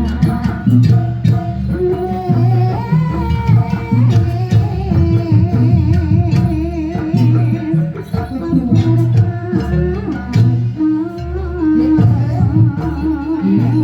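Live jaranan ensemble music: deep drum beats in a steady rhythm, sharp clashing percussion and a wavering melody line over them.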